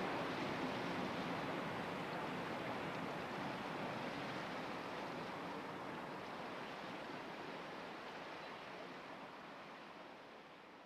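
Steady rush of water from the wash of an inland ship passing on the Rhine, fading slowly away.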